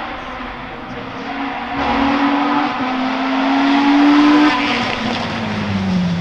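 Hill-climb race car accelerating hard, its engine pitch climbing through one gear change, loudest about four and a half seconds in. The driver then lifts off and the pitch falls away as the car passes.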